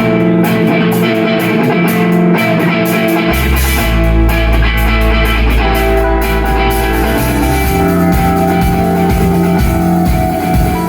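Instrumental rock music with guitars and a drum kit, and a heavy bass line coming in about three seconds in.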